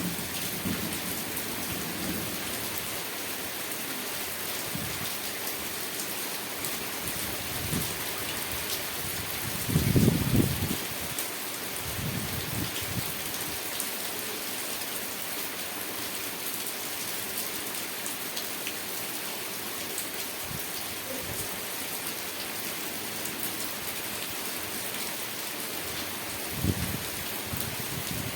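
Steady rain falling and pattering on surfaces, with a few brief low rumbles; the loudest comes about ten seconds in.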